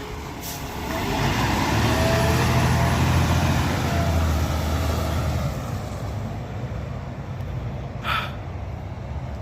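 Peterbilt 520 McNeilus ZR garbage truck's diesel engine running. Its low hum swells about a second in, holds steady for several seconds, then eases off. A short hiss comes about eight seconds in.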